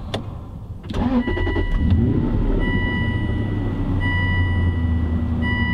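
2008 Aston Martin Vantage's V8 engine started with the push button about a second in: it catches with a quick rev flare, then settles into a steady idle, heard from inside the cabin. A high warning chime beeps four times over it.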